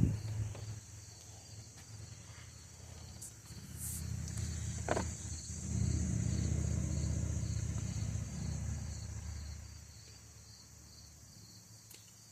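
Insects, likely crickets, chirping steadily in a fast, even pulse, with a low rumble that builds about four seconds in and fades out near ten seconds.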